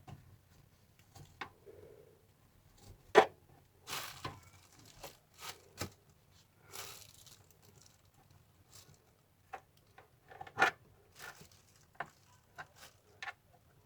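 Irregular clicks and knocks with short bursts of rustling, like tools and parts being handled. A sharp knock comes about three seconds in and another near eleven seconds.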